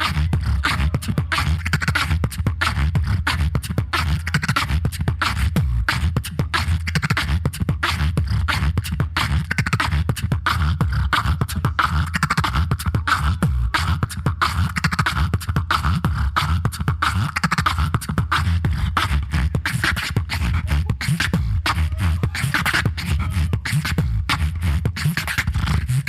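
Solo beatboxer performing through a microphone and PA: a rapid, unbroken stream of mouth-made kicks, snares and clicks over a heavy bass line, with a vocal tone running through it.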